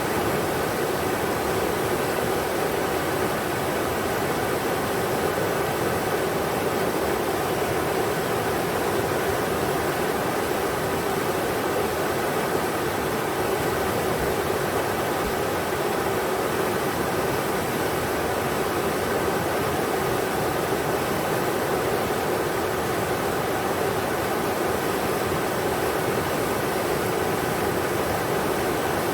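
River water rushing steadily over rocks, an even, unbroken hiss with no changes.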